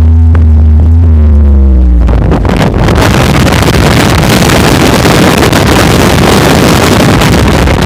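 A vehicle engine runs with its pitch easing down. About two seconds in, a loud, rushing noise of wind on the microphone drowns it out.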